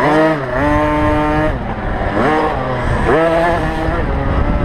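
Small two-stroke motocross bike engine revving hard, its pitch climbing sharply three times with the throttle and falling away between.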